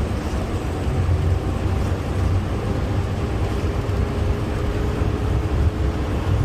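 Garbage truck driving, a steady low engine and road rumble with no sudden knocks or changes.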